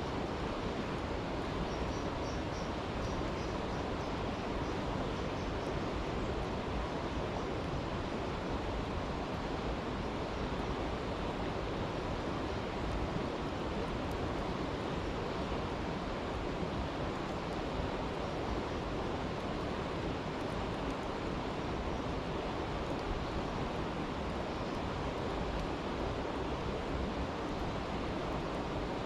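Brook water rushing steadily in an unbroken, even wash. A faint high chirping comes and goes a few seconds in.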